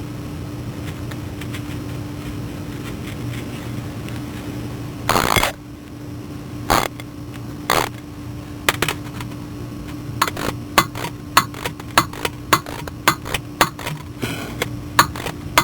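A steady hum, then a few separate metal knocks, and from about ten seconds in a hand ratchet clicking in short strokes, about three clicks a second, as a bolt is run down during a starter install.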